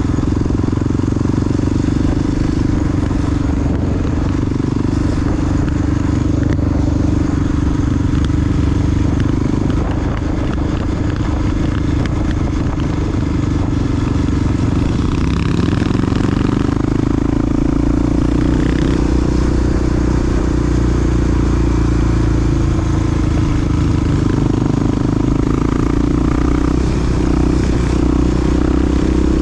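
Big single-cylinder four-stroke engine of a Honda XR dual-sport motorcycle running as it is ridden, its pitch rising and falling with the throttle.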